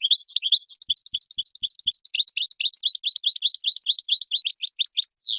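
European goldfinch singing: a fast, unbroken twittering run of many short high notes, several a second. Near the end comes a single steep downward-slurred note, then the song cuts off suddenly.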